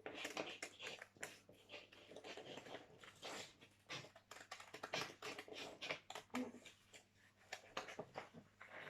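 Scissors snipping through paper, faint and irregular, with small crackles of the sheet being turned.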